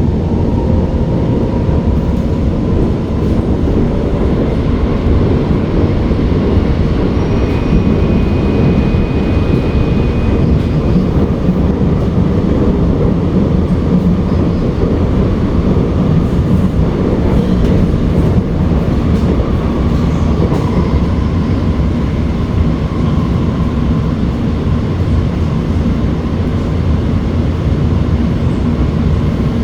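Steady rumble of an SMRT R151 metro train running between stations, heard inside the carriage, with a faint steady whine above it.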